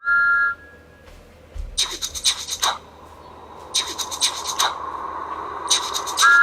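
A brief steady electronic beep, then three bursts of rapid scratchy rubbing strokes about two seconds apart; music starts right at the end.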